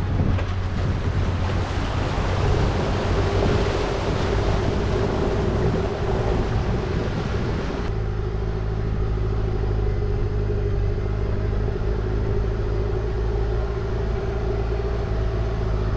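Four-wheel drive vehicle driving along a backcountry track, its engine running steadily under a broad hiss of tyre and track noise. About halfway the hiss eases, leaving a steady engine hum.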